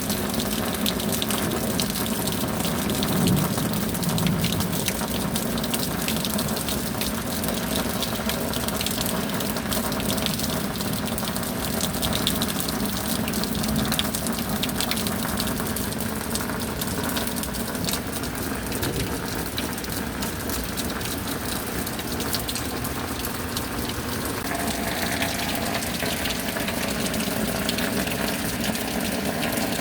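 Steady rain with a running-water hiss and many small drop ticks; the sound shifts slightly about 25 seconds in.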